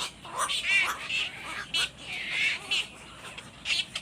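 Young birds chirping and peeping, a quick run of short, high-pitched calls, several a second.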